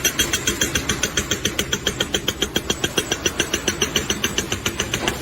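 A machine pounding rapidly and steadily, about eight strokes a second.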